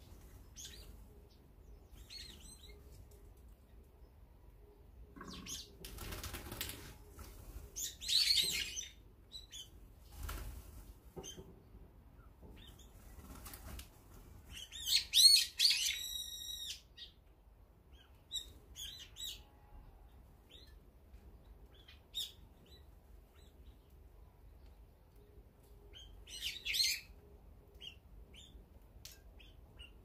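Brown-eared bulbuls at a feeder: scattered shrill calls, the loudest a run of calls about halfway through and another near the end, with short whirs of wings as birds fly in and out.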